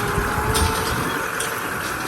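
Kubota M6040 tractor's diesel engine running steadily.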